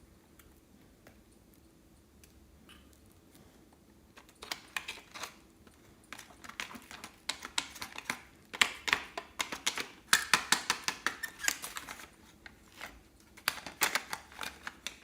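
Slime being squished and kneaded by hand, a fast run of sticky clicks and crackling pops. It starts about four seconds in, is densest in the middle, pauses briefly near the end, then crackles again.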